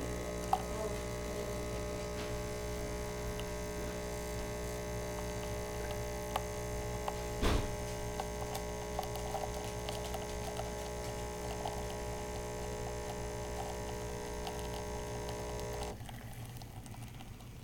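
Nespresso machine's pump humming steadily as it brews an espresso shot, with a single knock partway through; the hum cuts off near the end as the shot finishes.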